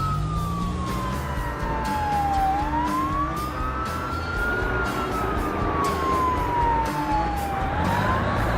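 Emergency vehicle siren wailing: a single tone falls slowly, rises again, and repeats, each fall and rise taking about five seconds.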